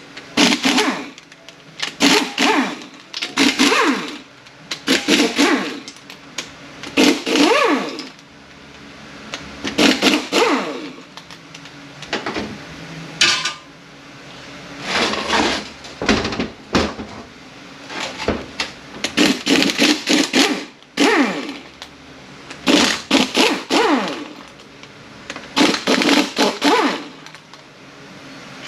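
A handheld power tool spinning out the 13 mm tail-housing bolts of a Mercedes 722.118 automatic transmission, run in about sixteen short whirring bursts of up to a second each, the pitch bending as it speeds up and slows.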